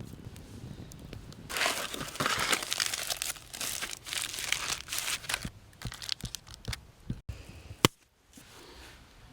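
Irregular crinkling and crumpling of handled material, with a sharp click about eight seconds in.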